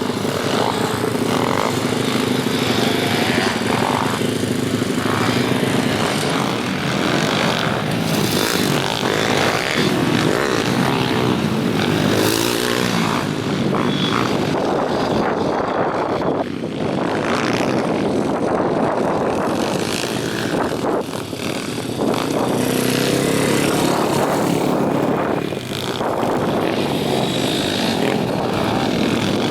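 Several pit bikes' small single-cylinder engines racing around a track, revving up and down as the bikes pass. The engine noise runs continuously, with a few brief dips in level.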